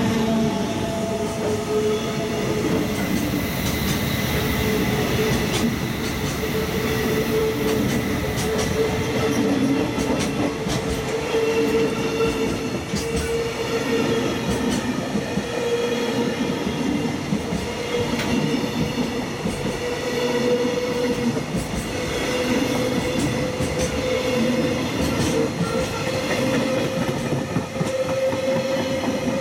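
Container wagons of a JR Freight freight train rolling past at reduced speed under a caution signal, wheels clicking irregularly over rail joints and welds. A steady tone from the running gear creeps slowly up in pitch.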